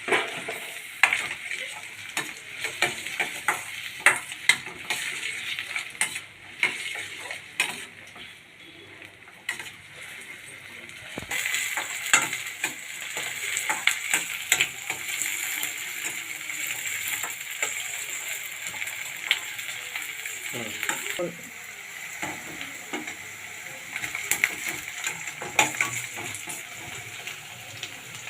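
Chopped onion, green chillies and capsicum sizzling in hot oil while a spatula stirs them, with frequent scrapes and taps against the pan. The sizzle grows brighter and a little louder about a third of the way in, then eases back.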